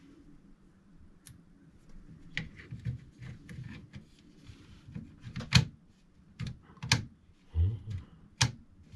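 Irregular sharp clicks and taps of hard objects being handled during unboxing, with a few louder knocks in the second half.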